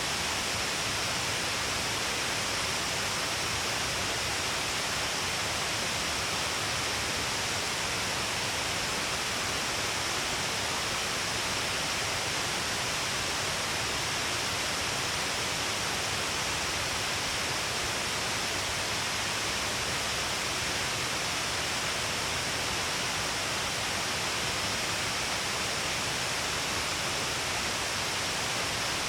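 Steady rush of falling and flowing water, an even hiss without breaks or changes.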